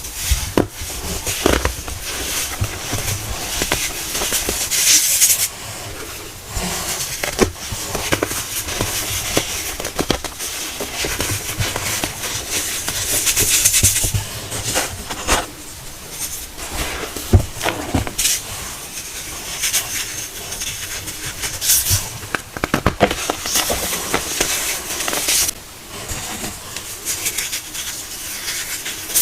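Pressed baking soda cones being crushed: a continuous run of dry crunching and crumbling, with many sharp cracks and a few louder gritty stretches.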